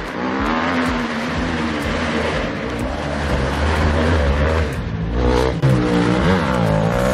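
Motocross dirt bike engine running hard as the rider comes along the track, holding steady at first, then the revs dropping and rising again several times in the second half.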